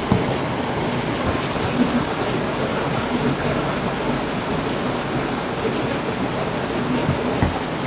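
Heavy rain falling steadily, with now and then a single louder drop or drip striking a surface.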